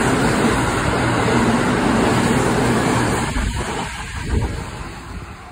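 Electric commuter train running past a station platform at close range: a loud, steady rumble of wheels on rails that fades about three seconds in to a quieter train sound, with a single clack near the end.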